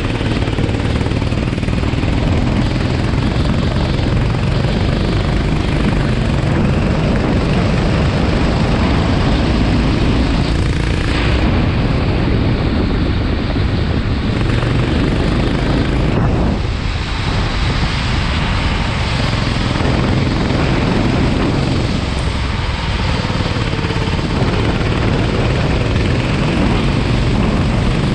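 Kart engine running hard on track, heard onboard, its note dropping briefly about three times as it slows for corners.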